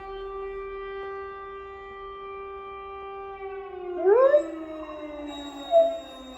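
A siren holds one steady wailing pitch, then slowly winds down in pitch. About four seconds in a dog howls along with it, with a rising-then-falling howl, and gives a second short howl near the end.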